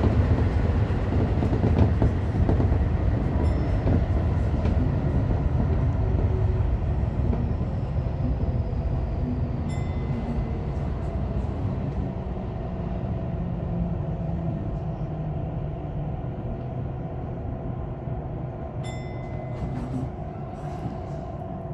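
Electric commuter train running on the rails, a steady rumble that gradually gets quieter as the train slows for its next station. There are short clicks about ten seconds in and again near the end.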